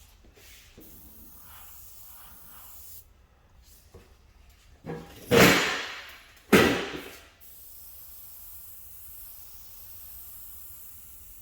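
Two short, loud blasts of compressed-air spray a little over a second apart, each cutting in suddenly and tailing off, followed by a steady faint hiss.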